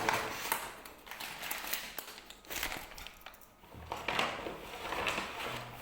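Rustling and crinkling of takeaway food packaging being handled, with a few light taps and clicks.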